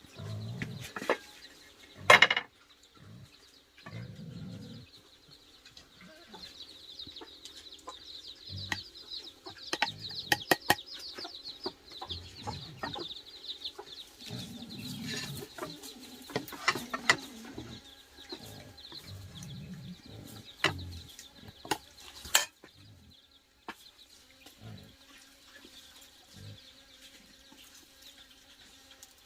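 Chickens clucking, with scattered sharp knocks and clicks, the loudest about two seconds in.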